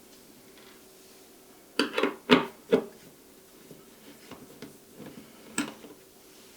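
Hand-disassembly clatter of a screwdriver and plastic parts of a resin wash station being handled: a quick run of four sharp knocks about two seconds in, then lighter clicks and one more knock near the end, over a faint steady hum.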